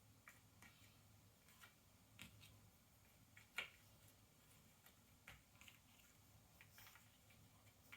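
Faint, irregular clicks and light taps of cardboard jigsaw puzzle pieces being handled and pressed into place on the table, with one sharper click about three and a half seconds in.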